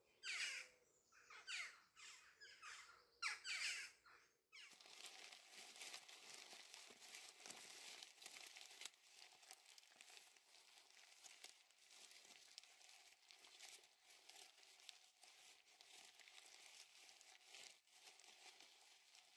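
A bird gives a few harsh, falling calls. From about four seconds in, a faint, dense crackling of many tiny clicks takes over and keeps on.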